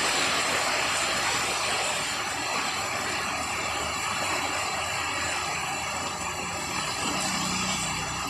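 Heavy rain falling, a steady hiss that eases slightly toward the end.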